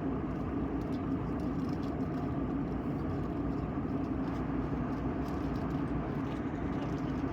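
Steady airliner cabin drone in cruise from an Airbus jet: an even rush of engine and airflow noise with a constant low hum.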